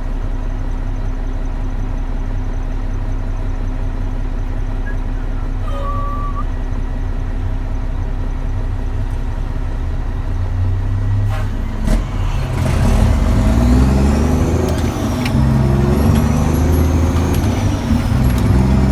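Dump truck's diesel engine, heard from inside the cab, running at a steady speed. About twelve seconds in there is a short sharp sound, then the engine is revved up and shifted through several gears, its pitch climbing and dropping in steps as the truck pulls away.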